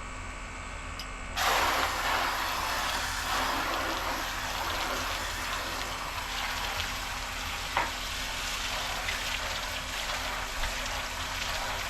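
Water running onto a plastic RC boat hull: a steady hiss of splashing water that starts suddenly about a second and a half in, over a low mains hum.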